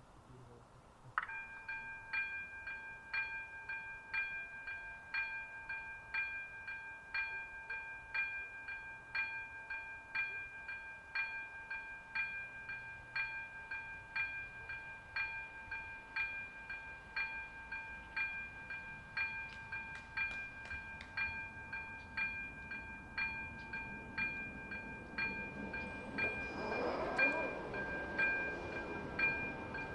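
Czech level-crossing warning bell starting suddenly about a second in and ringing a steady, evenly repeated ding: the crossing has been activated for an approaching train. Near the end a rising rush of passing-vehicle noise swells under the bell.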